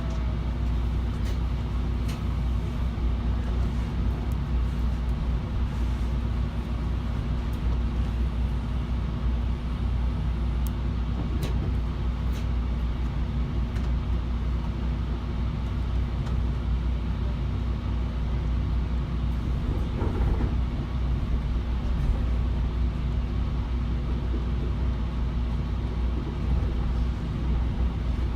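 Steady low rumble inside a moving Trinity Railway Express commuter train, with a few faint clicks.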